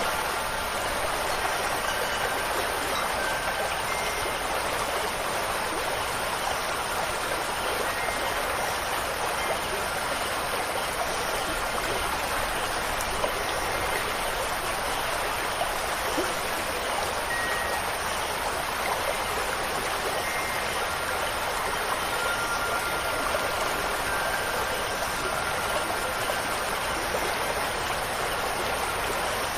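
Steady rushing water, an even hiss of flowing water with no change in strength, with faint brief chime tones now and then.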